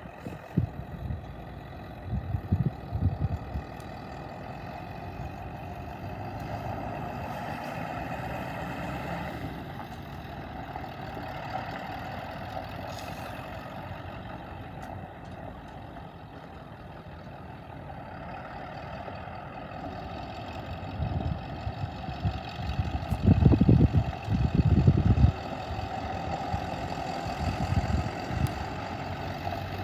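1997 Ford utility truck's engine idling steadily, with louder bursts of low rumbling about two seconds in and again for a few seconds past the middle.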